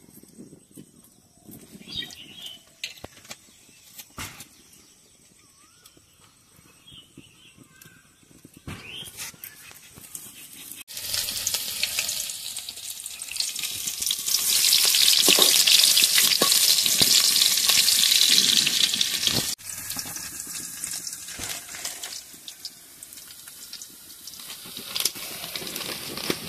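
Sliced onions frying in hot oil in a metal kadai, with a steel ladle stirring and clicking against the pan. After a quiet start with a few light clicks, a loud sizzle sets in about a third of the way through, is loudest around the middle, then drops suddenly to a softer sizzle.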